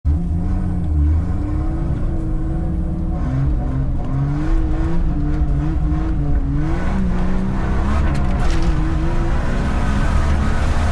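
Jeep Cherokee's engine running hard in a race, its pitch climbing and dropping again and again as the revs rise and fall.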